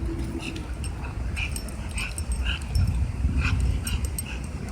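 A bulldog making short high-pitched whimpers, about two a second, over a low rumble while it tugs against its owner to keep hold of an object.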